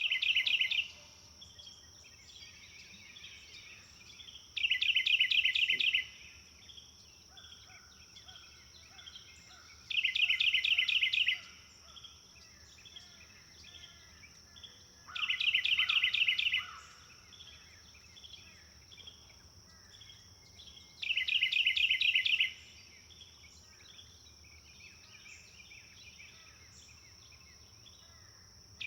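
A songbird repeating the same short, rapid trill of quick notes about every five to six seconds, five times, each lasting about a second and a half, with quieter chirping from other birds in between and a steady high-pitched whine underneath.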